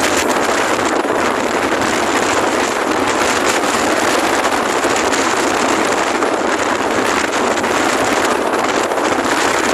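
Strong wind rushing steadily over the microphone on a moving Honda Genio scooter.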